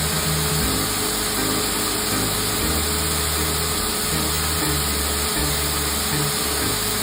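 A power tool or machine running steadily, with a constant hum and hiss, under background music whose low notes change every half second or so.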